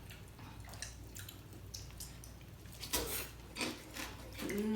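Quiet wet eating sounds of raw seafood and rice noodles being eaten, with faint small clicks and two sharper clicks about three seconds in. Near the end someone hums a steady 'mmm'.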